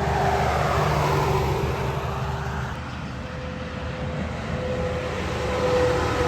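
Heavy truck traffic on a highway: a steady engine drone and tyre noise that eases off a little midway, then swells again near the end as another vehicle approaches.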